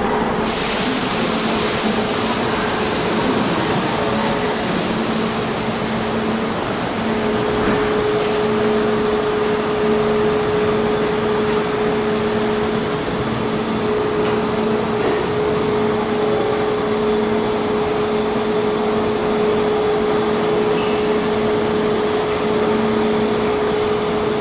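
Steady whirring hum of a Kintetsu 80000 series Hinotori limited express standing at the platform, its air conditioning and auxiliary equipment running, with a pitched hum that grows stronger about seven seconds in. A short hiss of air comes near the start.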